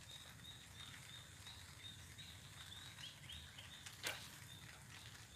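A small bird calling: a short high chirp repeated about four times a second, faint, over a low steady rumble. A single sharp click a little after four seconds in is the loudest sound.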